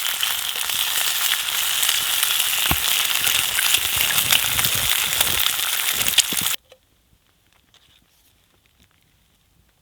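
Bacon frying in a pan, a dense sizzle with scattered crackling pops. It cuts off abruptly about six and a half seconds in, leaving near silence.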